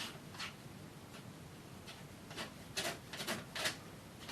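Detail (painting) knife dabbing and scraping oil paint onto canvas: a few short, separate scrapes, one near the start and a quicker run of four or five from about two and a half to three and a half seconds in.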